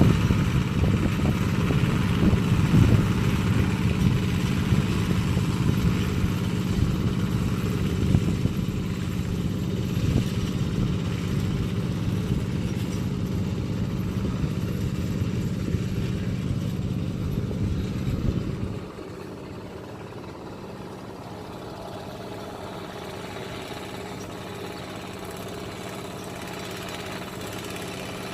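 Tractor engine running steadily, then dropping abruptly to a quieter, lower-speed running about nineteen seconds in.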